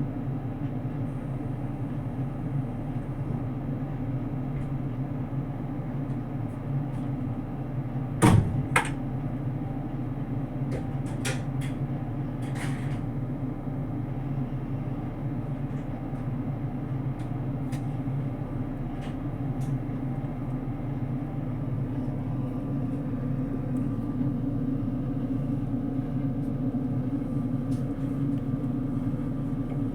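Steady hum heard inside the cabin of a JR Kyushu 787 series electric train, growing slightly louder in the second half, with one loud knock about eight seconds in and a few lighter clicks soon after.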